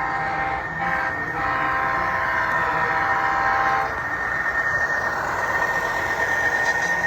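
Diesel locomotive's multi-chime air horn sounding a chord in blasts, with two short breaks in the first second and a half, then a long blast that stops about four seconds in. After it, the train runs past with a steady rumble and a thin high tone.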